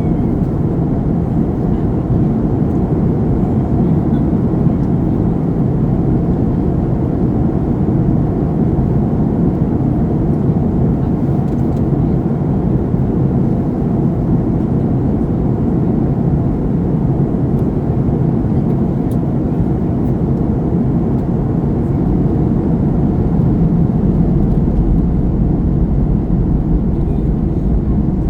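Steady low rumble of an airliner's jet engines and rushing air, heard inside the cabin.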